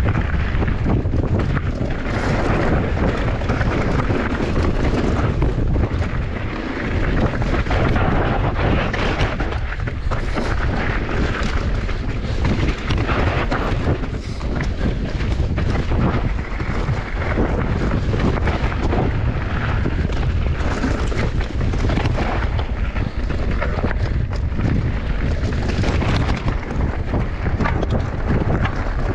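Mountain bike descending a bike park trail: wind buffeting the camera microphone and tyres running over dirt and rock, with many small knocks and rattles from the bike.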